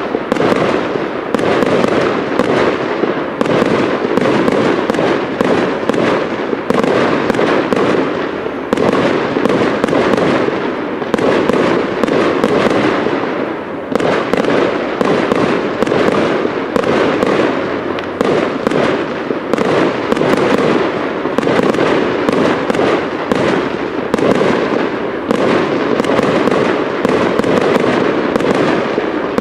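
Professional fireworks display: a continuous barrage of aerial shell bursts, many bangs overlapping with no pause.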